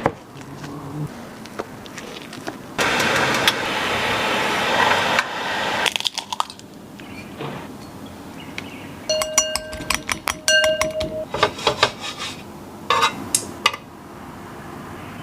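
Kitchen food-preparation sounds: a few seconds of steady hiss, then a quick run of ringing clinks of a utensil against a bowl, followed by a few scattered knocks.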